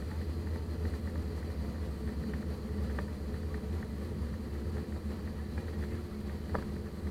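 Steady low cabin hum of an Airbus A320 on the ground before takeoff, with engines and air conditioning running and a constant mid-pitched drone underneath. A couple of faint clicks are heard, one about three seconds in and one near the end.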